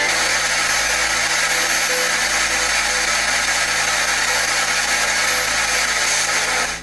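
SBox spirit box sweeping through radio stations: a loud, steady rush of radio static with faint short snatches of tone in it, which cuts off suddenly at the end.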